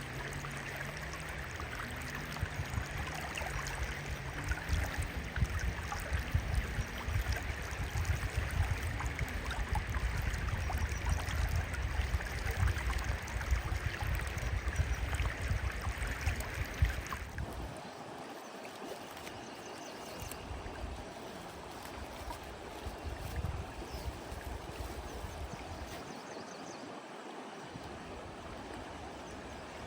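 Running, gurgling water with a low rumble; it changes abruptly to a quieter, thinner water sound about two-thirds of the way through.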